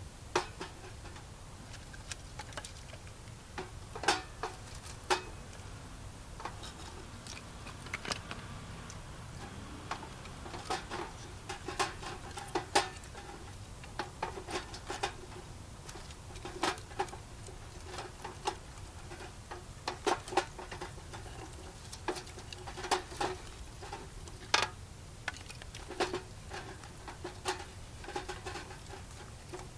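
Irregular sharp clicks and light knocks, some ringing briefly, spaced unevenly over a low steady hum.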